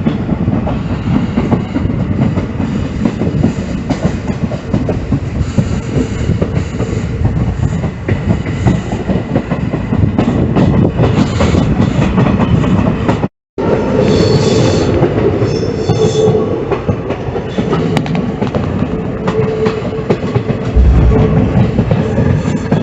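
Passenger train running on the rails with a steady rumble and wheel clatter. The sound breaks off for a moment about 13 seconds in; after that a thin, high wheel squeal rises over the rumble for a few seconds.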